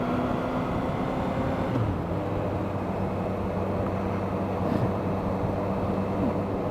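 Motorcycle engine running steadily at cruising speed, with wind noise rushing past.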